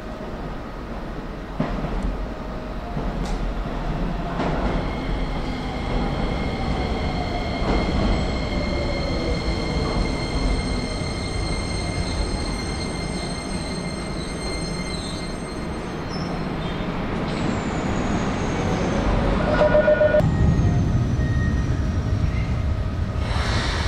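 Electric commuter train at a station platform: its motor whine falls steadily in pitch as it slows, over steady high-pitched wheel or brake squeal, with louder low running rumble in the last few seconds.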